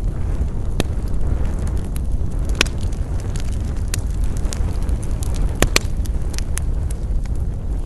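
Wood fire burning with a steady low roar and scattered sharp crackles and pops, the loudest about two and a half seconds in and a close pair a little past halfway.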